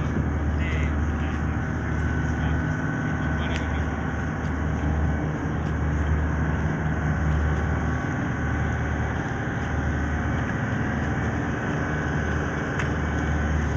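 A steady low rumble that swells and dips every few seconds, with a few faint clicks over it.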